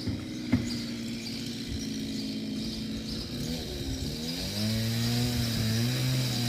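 A small engine running steadily, its pitch wavering up and down from about halfway through, with a steady high-pitched drone behind it and a single click about half a second in.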